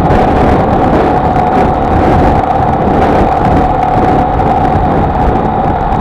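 Honda XLR125R's single-cylinder four-stroke engine running at a steady pace while riding, with a steady drone over low wind and road rumble.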